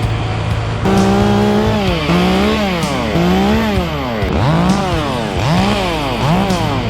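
Two-stroke chainsaw cutting wood at high revs, its pitch dipping and recovering about six times as the chain loads up in the cut and frees again. A steady low engine hum runs underneath.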